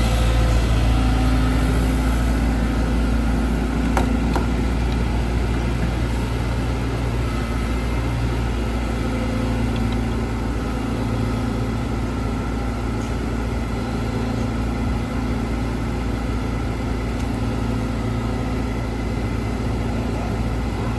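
Caterpillar 313GC excavator's diesel engine running steadily, with a single sharp click about four seconds in.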